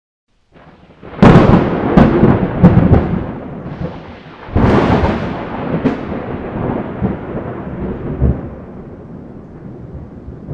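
Thunder: a loud crack about a second in with more cracks after it, a second crash a few seconds later, and a long rolling rumble that slowly fades.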